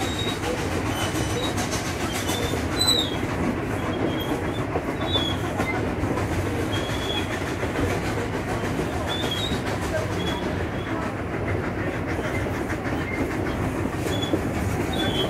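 Durango & Silverton narrow-gauge steam train heard from an open-sided passenger car: steady rolling rumble and clickety-clack of the wheels on the rails, with brief high squeaks every few seconds.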